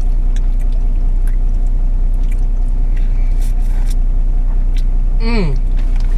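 Steady low hum of a car's idling engine heard inside the cabin, with small scattered clicks of handling food and drink. About five seconds in, a short voiced sound falls in pitch.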